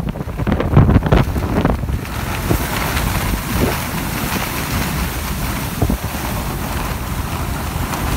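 Hurricane-force wind buffeting the microphone in heavy low gusts for about the first two seconds, then settling into a steady rushing hiss.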